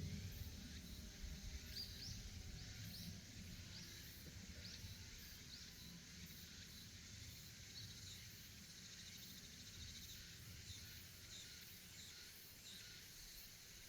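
Cicadas singing faintly: a steady high-pitched drone with short rising notes repeating about once a second.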